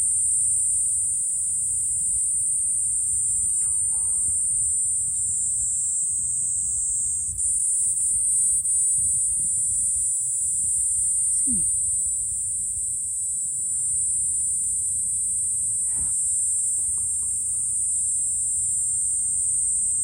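A continuous high-pitched insect drone, steady throughout with a brief dip about seven seconds in. Whether it is a cicada is in doubt.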